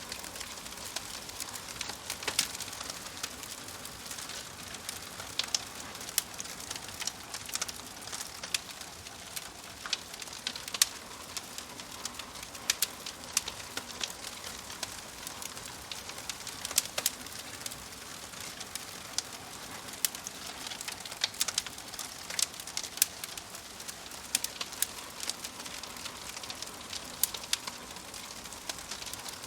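Wood fire crackling: a steady soft hiss with frequent sharp pops and snaps, irregular and scattered throughout.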